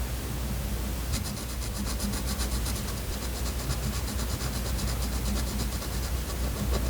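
Hand work on paper at a journaling desk: a fast, even scratching or rubbing of about ten strokes a second starts about a second in and stops near six seconds. A low steady hum sits underneath.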